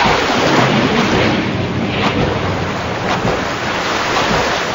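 Ocean waves: a steady loud rush of surf with a low rumble underneath.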